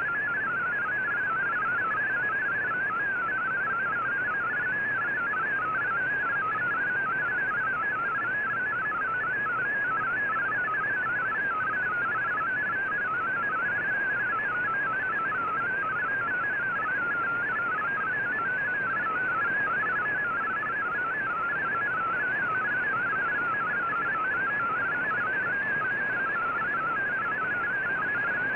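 Shortwave MFSK digital data signal from the VOA Radiogram broadcast: a steady warble of rapidly stepping tones over band hiss, received off the air on a communications receiver.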